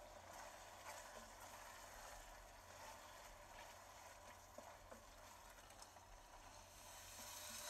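Faint sizzling of chopped tomatoes and spices frying in oil, with the soft scrape and light knocks of a wooden spatula stirring them in a stainless steel pan. It grows a little louder near the end.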